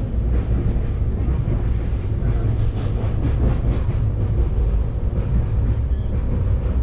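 Shatabdi Express passenger train running along the track, heard from inside the coach: a steady low rumble of wheels and running gear.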